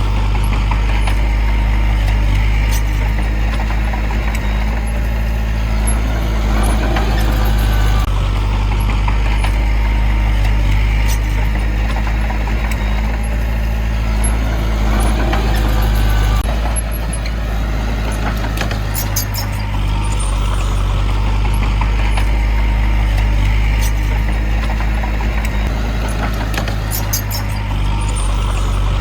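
Heavy diesel earthmoving machinery running continuously, its engine note swelling and easing several times as it works, with a few sharp metallic clicks.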